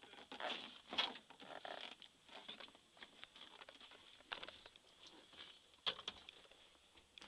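Soft rustling with scattered light taps and clicks, handling and movement noise inside a truck cab.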